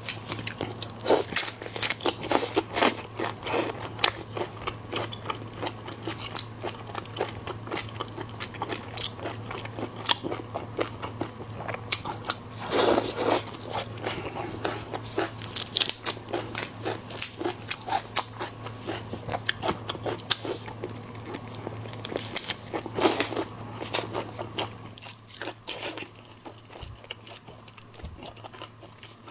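Close-miked chewing and biting of seafood: a dense run of crunchy clicks and wet crackles, with louder bursts of crunching about 13 and 23 seconds in, growing sparser near the end.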